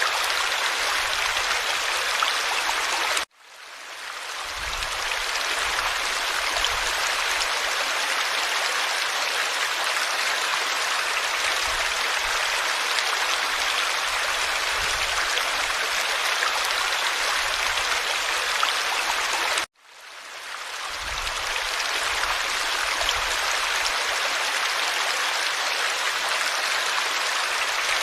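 Forest stream flowing steadily, an even rushing babble of water over stones. Twice, about three seconds in and again about twenty seconds in, the sound cuts out suddenly and fades back in over a second or two.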